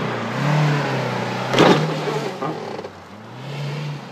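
Car engine revving up and down in repeated surges, with one loud bang about one and a half seconds in.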